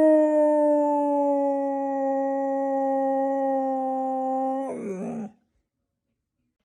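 A dog howling: one long held note that sags slowly in pitch, then wavers and falls away about five seconds in.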